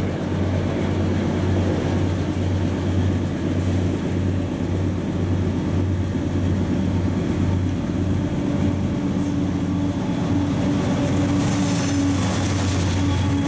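A CSX freight train led by a GE C40-8W and an EMD SD40-2 diesel locomotive approaches, its engines giving a steady low rumble. Near the end the lead locomotive passes close by with a burst of hissing wheel and rail noise and a faint squeal.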